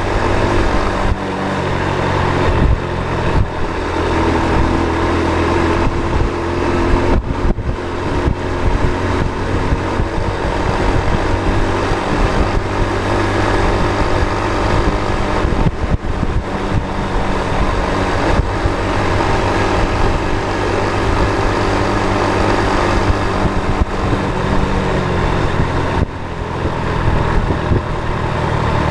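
Motor vehicle under way: the engine runs steadily under continuous road noise, its note shifting in pitch a few times.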